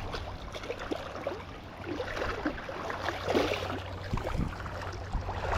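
Running water of a stream, a steady wash with scattered short sounds through it.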